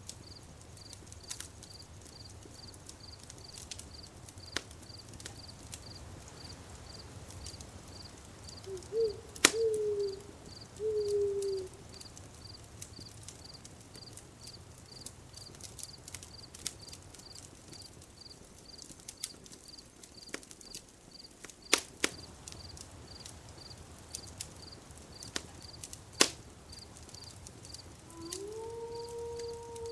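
Campfire crackling, with scattered sharp pops from the burning wood and a low steady rumble. Crickets chirp steadily at about two chirps a second throughout. A short wavering animal-like call in three pieces comes about nine to twelve seconds in, and a longer held call begins near the end.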